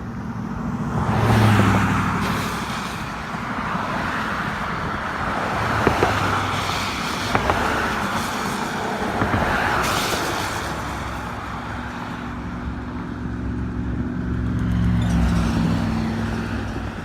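Several cars passing by on the road one after another, their engines and tyres swelling and fading as each goes past.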